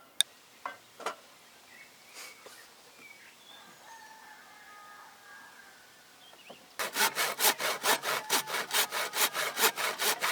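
Fast, even rasping strokes, about five a second, start about seven seconds in. Before them there are only a few faint clicks and chirps.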